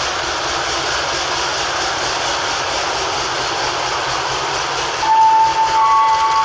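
Train passing: a loud, steady noise of the cars running by. About five seconds in, a held tone joins it and steps to another pitch.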